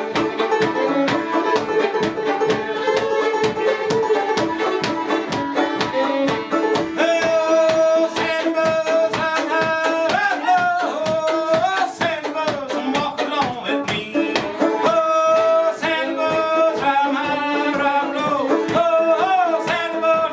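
Live acoustic folk music from a duo: an even, driving rhythm of plucked strings under a sustained melody line that bends in pitch and moves higher about seven seconds in.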